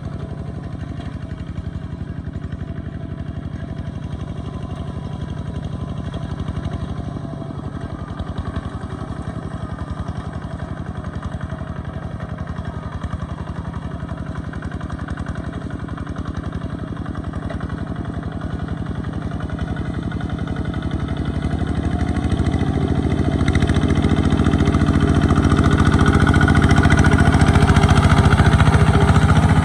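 A small Kubota tractor's engine running steadily. It grows louder and fuller from about twenty seconds in.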